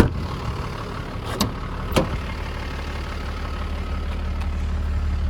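Toyota Land Cruiser's turbo diesel engine idling with a steady low hum, its rumble growing louder over the second half. A sharp click at the very start, and two lighter clicks over a second later.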